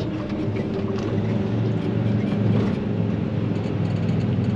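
Day-cab truck's engine running with a steady low hum while driving, heard from inside the cab.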